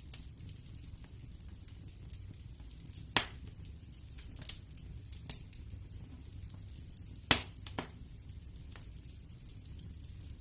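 Wood fire crackling in a fireplace: a low steady rumble of burning with sharp pops from the burning wood, three loud ones about 3, 5 and 7 seconds in.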